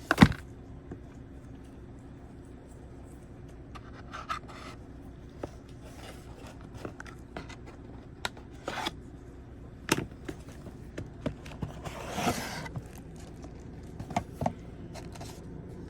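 Cardboard box and packaging being handled and unpacked: scattered clicks, taps and rustling. A sharp click comes right at the start, and a longer scrape about twelve seconds in.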